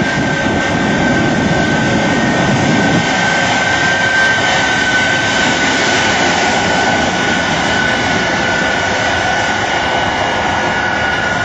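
Jet engines of a jet-powered truck running steadily, a loud rushing noise with a thin high turbine whine that sags slightly in pitch.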